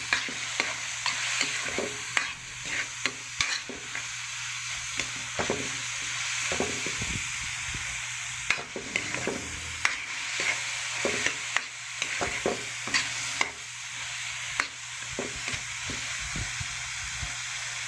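Chicken pieces sizzling as they sauté in a wok, with a metal spatula scraping and tapping against the pan as they are stirred. The sizzle is steady, and the scrapes and taps come frequently and irregularly.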